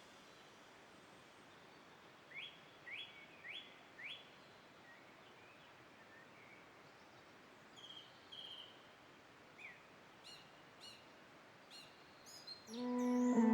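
Small birds calling over a faint, even background hiss: four quick rising chirps in a row a few seconds in, then scattered short chirps later on.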